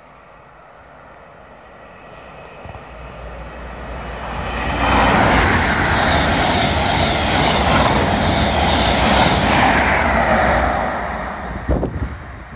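Express passenger train running through the station at speed: a rush of wheels on rail builds, stays loud for about five seconds as the coaches pass, then fades away. A few sharp knocks come near the end.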